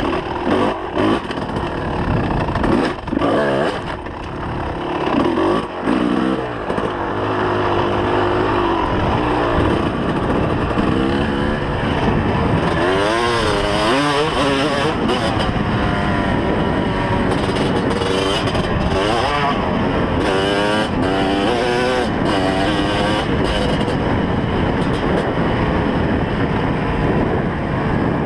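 2004 Kawasaki KX250's two-stroke single-cylinder engine revving up and down under riding, its pitch rising and falling again and again, with short thumps and choppy sound in the first several seconds.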